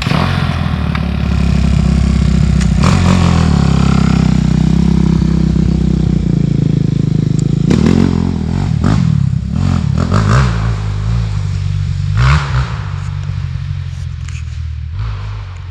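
Suzuki RM-Z dirt bike's four-stroke single-cylinder engine running loud and steady for about seven seconds. It is then revved in short throttle blips, a few seconds apart, and settles lower near the end.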